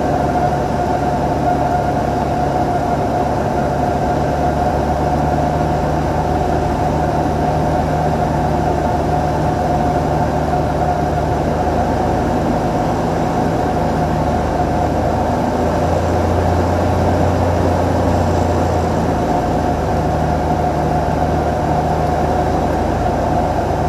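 Cessna 182's piston engine and propeller droning steadily in flight, with a steady low hum under a constant higher tone.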